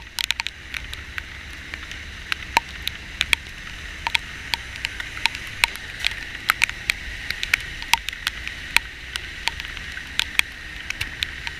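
Heavy rain: a steady hiss with many sharp, irregular drop hits striking close to the microphone, over a low vehicle rumble.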